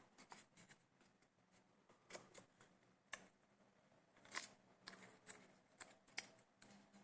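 Faint, scattered small clicks and taps from hands working a laptop's SO-DIMM RAM module out of its slot, about half a dozen over a few seconds.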